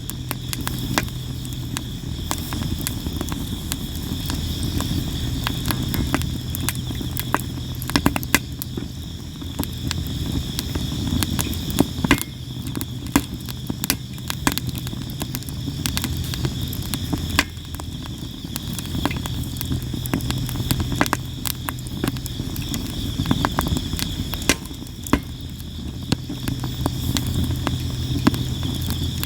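Campfire of sawara cypress wood crackling and popping constantly, with many sharp pops scattered throughout over the low rush of the flames. Insects chirp steadily in the background.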